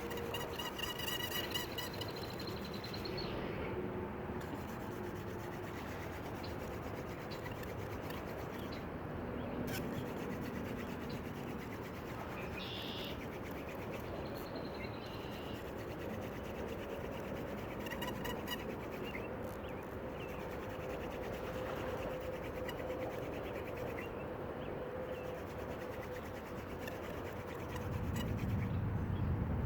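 Hand-drill fire-making: a wooden spindle spun between the palms, drilling into a wooden hearth board, giving a continuous dry rubbing sound.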